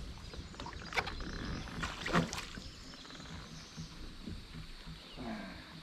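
A few short splashes and knocks about a second and two seconds in, as a small hooked smallmouth bass is reeled in to the kayak.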